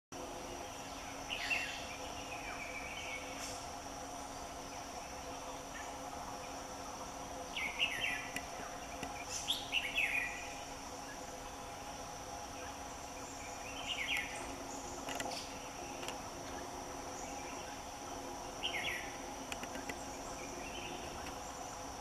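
A bird giving short, quick falling calls, about seven scattered through the stretch, over a steady high-pitched insect drone.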